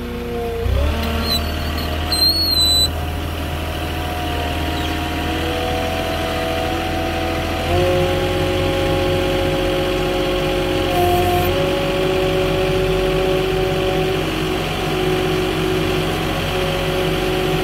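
Forklift engine running under way, its pitch rising as it speeds up about a second in and stepping up again near the middle. A brief high beep sounds about two seconds in.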